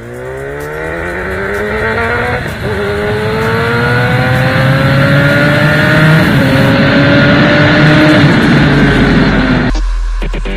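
Superbike engine accelerating hard, its pitch climbing steadily with a brief dip about two and a half seconds in as it shifts up, getting louder as it comes past, then cut off abruptly near the end.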